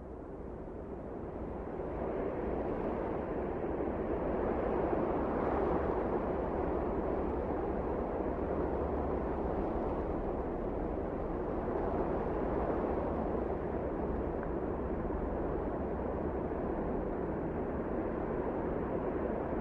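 Strong wind blowing steadily, as in a snowstorm, swelling over the first couple of seconds and then holding even.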